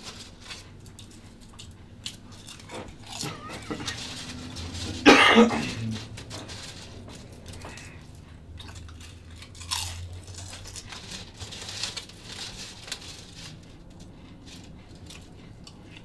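A person biting and chewing potato chips: scattered crisp crunches, with one much louder short sound about five seconds in.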